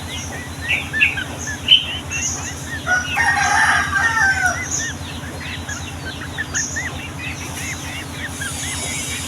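A group of yellow-vented bulbuls chirping busily, with many quick, short notes. About three seconds in, a rooster crows once for about a second and a half, over a low, steady, pulsing hum.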